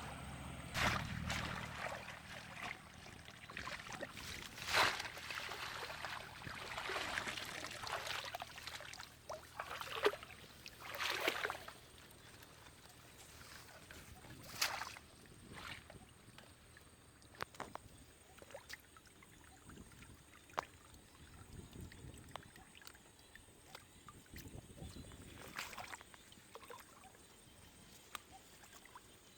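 Water splashing and sloshing in irregular bursts, mostly in the first half, followed by scattered small clicks and knocks.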